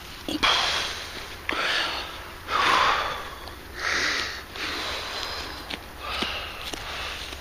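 Digging in soil by hand: a series of short scrapes of earth, about one a second, each starting with a light knock of the tool.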